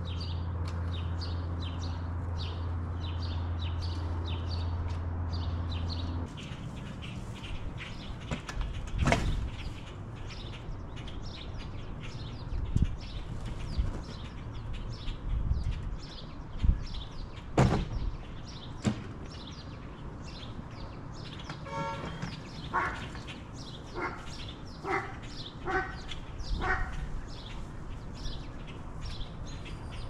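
A bird chirping over and over, about three short high chirps a second. A low steady engine hum sounds underneath at first and stops about six seconds in; after that come several scattered thumps and knocks, and a short run of higher squeaky calls near the end.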